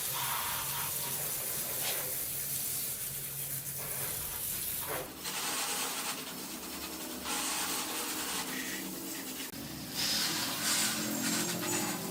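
A loud, hissing spray in several short stretches that start and stop abruptly, the kind of jet used to clean motorcycle parts during a restoration.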